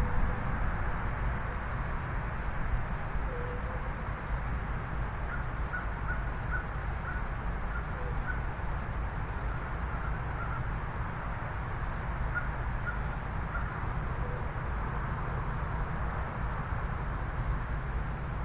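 Thunderstorm wind and rain making a steady rushing noise with a low rumble, with a few short bird calls breaking through in two brief clusters.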